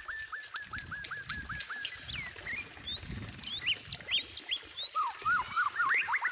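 White-rumped shama (murai batu) singing. It opens with a rapid run of short repeated hooked notes, about five a second, then moves to varied whistled notes sliding up and down, and ends in a fast series of rising notes.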